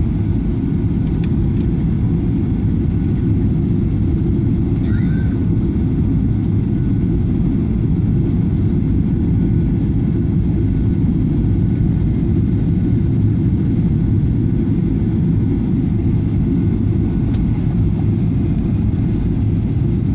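Steady low rumble of a Boeing 737-900ER airliner during its landing, unchanging in level throughout.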